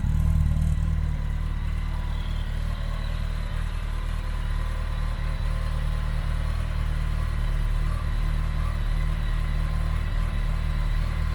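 Kawasaki ZX-14R's inline-four engine idling through a Nojima aftermarket silencer, a deep steady exhaust note. It is a little louder at first and settles to a steady idle within the first two seconds.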